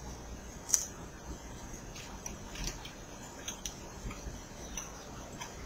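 A person chewing a mouthful of chicken tortilla soup, with a few faint, scattered clicks.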